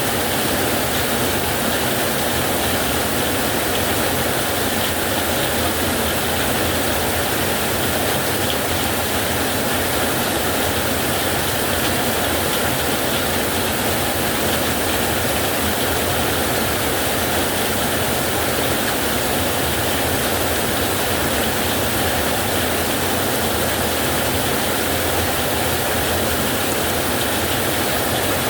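Heavy rain falling steadily on a metal roof, an even, dense hiss with no letup or thunderclap.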